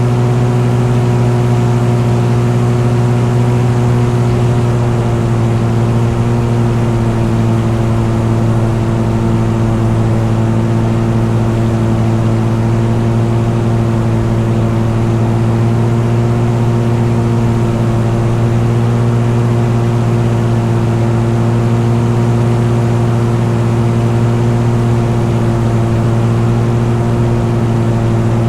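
A vehicle engine running at a steady, unchanging pitch, holding a constant cruising speed.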